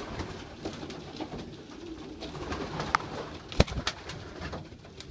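Racing pigeons cooing in a loft, with a sharp click about three and a half seconds in.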